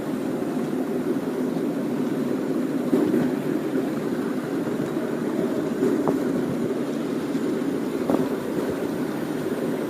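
Miniature railway train running along its track: a steady rumble of the wheels on the rails, with a couple of faint clicks.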